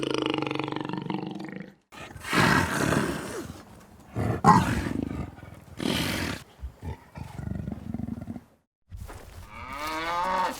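A series of loud animal calls spliced together, with short silences between them. The first is a long, steady pitched call. Several loud, harsher calls follow, and near the end comes a pitched call that rises and falls.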